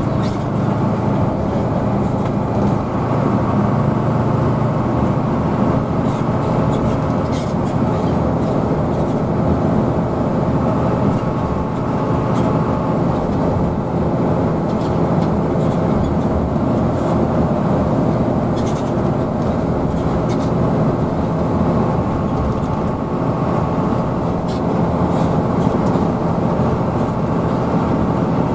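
Hino AK bus engine running steadily under way, heard from inside the bus: a continuous low drone with road noise and a few faint rattles.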